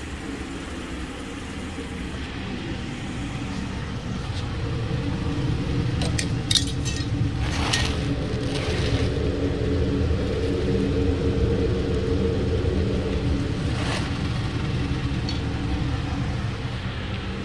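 2014 Hyundai Sonata's 2.4-litre four-cylinder engine idling steadily, heard from the tailpipe end and growing louder towards the middle. A few short knocks and rattles as the rubber exhaust-extraction hose at the tailpipe is handled.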